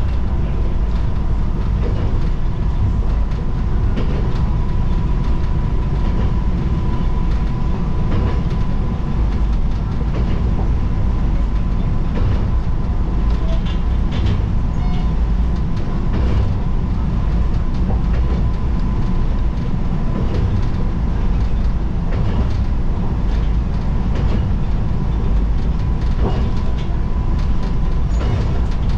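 Tsugaru Railway diesel railcar running along the line, heard from inside the car: a steady low running rumble with a thin steady whine and scattered wheel clicks over the rail joints.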